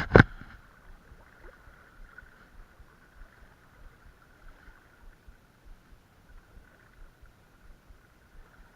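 Creek water running steadily, with a sharp click or knock right at the start.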